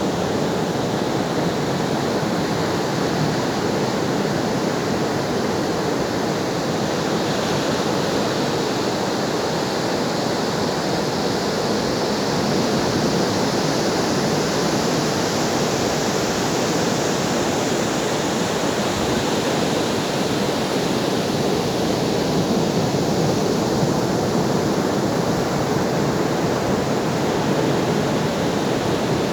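Ocean surf: a steady wash of breaking waves, swelling slightly and easing off again.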